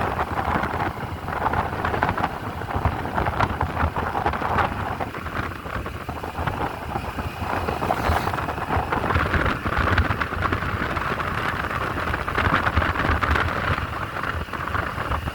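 Wind rushing and buffeting over the microphone with the low rumble of a motorcycle and road noise while riding.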